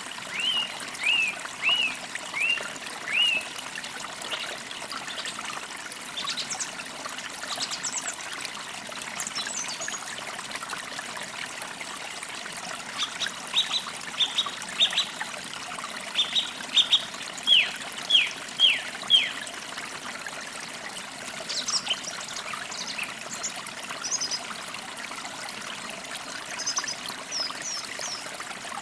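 Songbirds calling over a steady trickling stream: runs of short downward-sliding chirps, about two a second, near the start and again midway, with thinner, higher calls in between.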